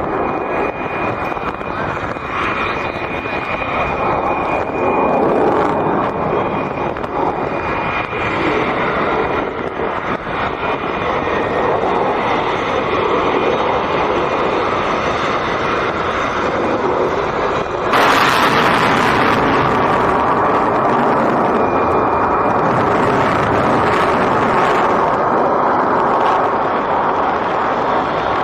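Fighter jet engine noise from a flying display, a steady dense rush that suddenly grows louder and brighter about two-thirds of the way through.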